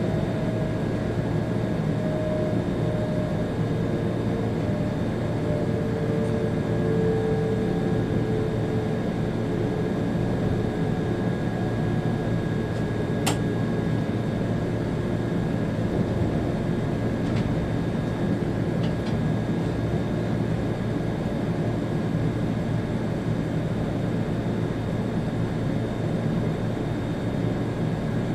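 Steady running noise of a Railjet train heard from the driver's cab, with a constant high whine and a lower whine that falls in pitch over the first ten seconds. A single sharp click comes about thirteen seconds in.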